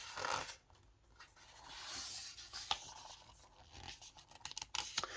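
Pages of a picture book being turned and handled: soft paper rustling and scraping with a few light clicks.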